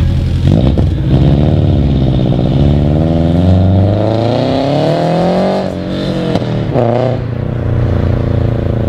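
Subaru BRZ's 2.0-litre flat-four boxer engine, fitted with a Tomei unequal-length header and a Berk high-flow catted front pipe, revving. The engine note climbs steadily for several seconds, falls away sharply a little past halfway, then rises briefly once more and settles to a steady note.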